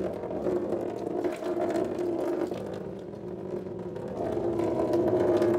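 Liquid poured in a steady stream from a plastic bottle into a plastic basin, splashing without a break and a little louder in the last second or so.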